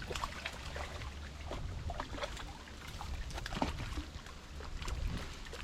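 Water trickling and lapping around a canoe, with many small drips and light knocks against the hull, over a low rumble of wind on the microphone.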